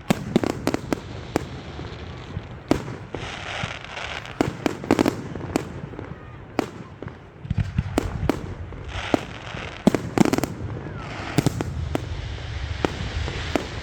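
Aerial fireworks display: a rapid succession of sharp shell bursts and bangs overhead, coming in clusters with crackling between them over a low rumble.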